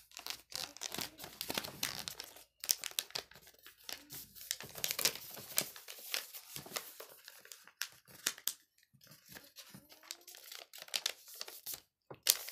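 Sheet of paper being folded and creased by hand: irregular crinkling and rustling, with a short pause about two-thirds of the way through.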